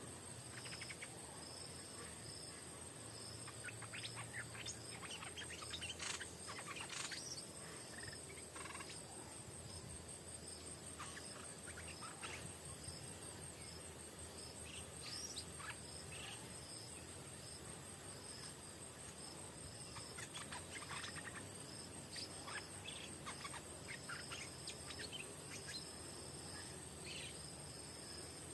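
Stripe-throated bulbuls chirping in short scattered bursts, busiest early on and again past the middle, over a steady high-pitched insect drone.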